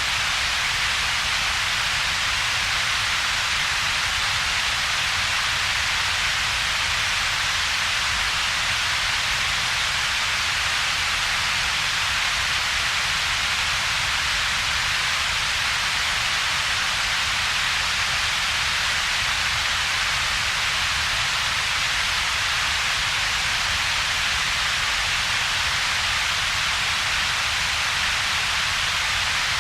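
Synthetic double-peaked noise, steady and unchanging: a strong hiss centred around a few kilohertz together with a weaker low rumble below about 200 Hz, with little in between.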